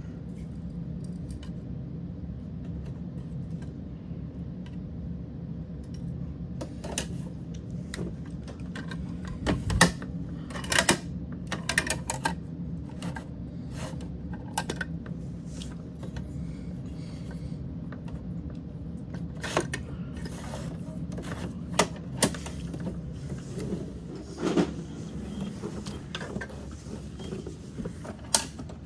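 Scattered plastic clicks and clatters from toy garbage trucks being handled and worked, in irregular clusters, over a steady low hum.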